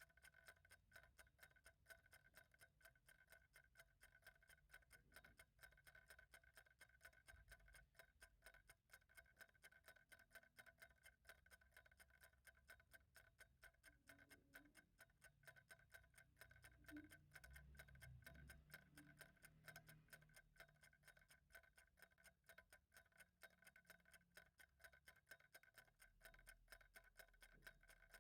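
Faint, steady ticking of a clock, quick and even, with a few soft low rumbles near the middle.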